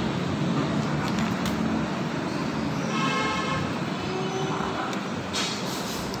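Steady road-traffic noise, with a brief high tone about three seconds in.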